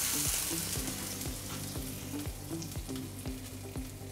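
Beef patty fat sizzling on a hot cast-iron griddle, the hiss gradually fading. Background music with a steady beat plays underneath.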